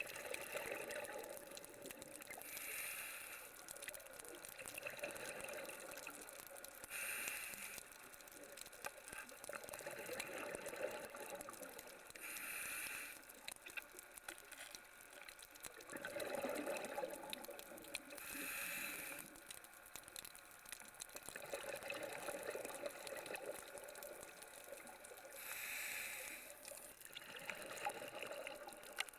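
A scuba diver breathing through a regulator underwater: a drawn-out hiss of each inhale, then a short gurgling rush of exhaled bubbles, repeating about every five seconds, six breaths in all.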